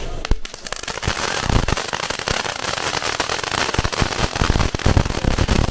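Fireworks going off: a dense, rapid run of sharp cracks and pops, like a string of firecrackers, starting just after the beginning and keeping up throughout.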